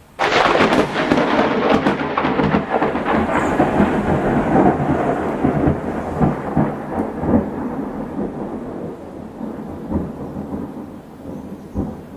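A thunderclap: a sudden crackling crack just after the start, then a long rolling rumble of thunder that slowly fades.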